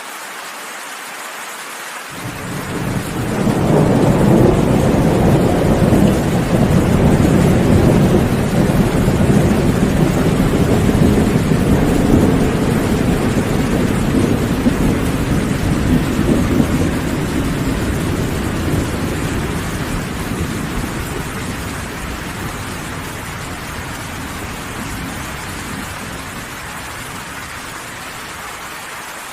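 Steady heavy rain with a long rolling thunderclap: the deep rumble swells about two seconds in, holds for several seconds, then slowly fades away under the rain.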